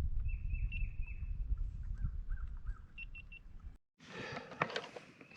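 Wind buffeting the microphone as an uneven low rumble, with faint high chirps and three short pips over it; the sound drops out briefly about four seconds in and resumes quieter.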